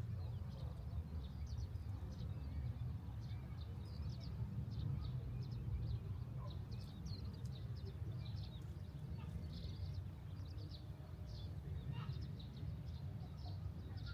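Many small birds chirping rapidly and continuously, over a steady low rumble.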